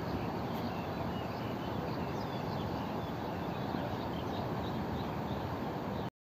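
Steady outdoor background noise with small birds chirping repeatedly in short high calls. The sound cuts off abruptly near the end.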